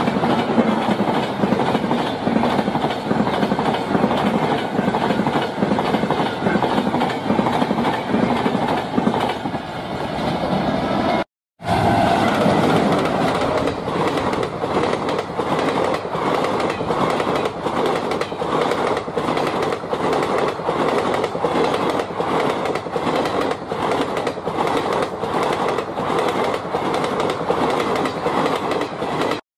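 Passenger train coaches rolling past on the rails, their wheels clacking steadily over the rail joints. The sound drops out for a split second about eleven seconds in, then carries on.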